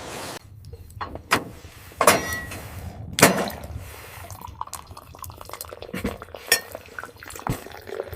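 Tableware clinking and knocking: a string of separate sharp knocks, a few of them ringing briefly, as cups and dishes are handled.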